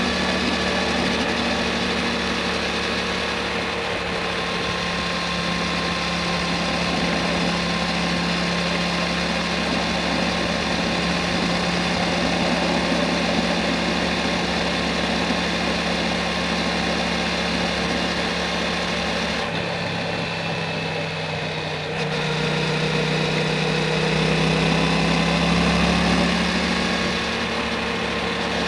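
Yamaha MT-07's 689 cc parallel-twin engine running through an Akrapovic Racing Titan full exhaust while riding at a steady pace. The note drops about two-thirds of the way through, then picks up again and rises as the throttle opens.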